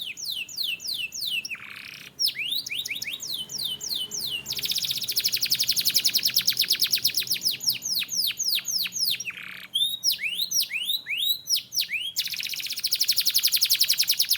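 Domestic canary singing. It gives phrases of quick repeated down-slurred whistles, broken by long, very fast, even trills: one about five seconds in that lasts some five seconds, and another near the end.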